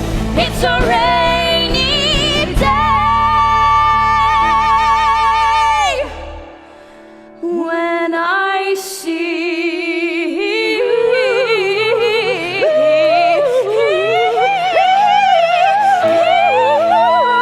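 Woman singing with wide vibrato over instrumental accompaniment, with no clear words: a long held note that breaks off about six seconds in, a brief quieter lull, then a rising and falling melodic line.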